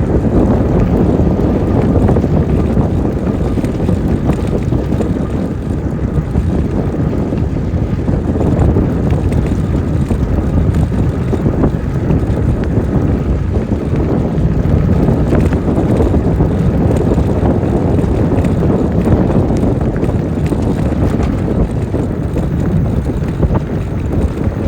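Steady low wind rumble buffeting the microphone of a camera riding on a moving e-bike.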